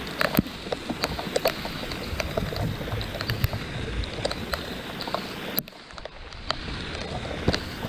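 Steady rain, with scattered drops tapping and dripping close by. The rain noise drops away briefly about two-thirds of the way through.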